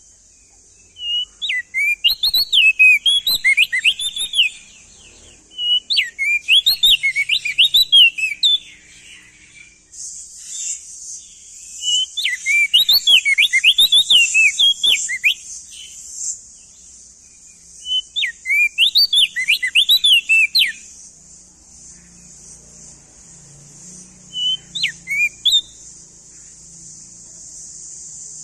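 Opior jambul (crested white-eye) singing: five phrases of quick, jumpy rising and falling notes, each lasting a few seconds with pauses between, the last one short. A steady high hiss runs behind the song throughout.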